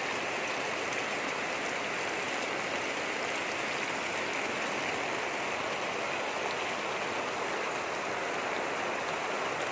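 Steady rain falling on a garden: a constant, even hiss with no breaks.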